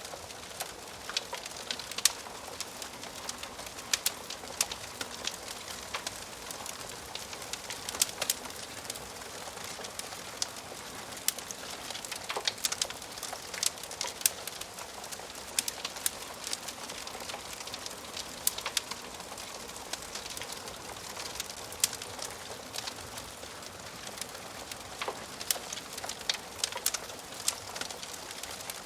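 Wood fire burning in a fireplace: a steady hiss with frequent irregular crackles and sharp pops from the burning logs.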